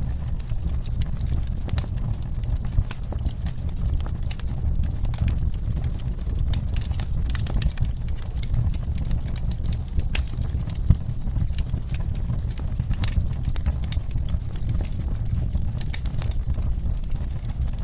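Wood fire crackling in a fireplace, with frequent irregular sharp pops over a steady low rumble, mixed with the steady sound of rain.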